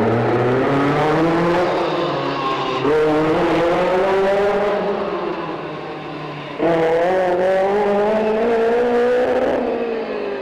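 Group B rally car engine running hard under load, its pitch climbing and sagging, with sudden jumps in pitch and loudness about three and six and a half seconds in.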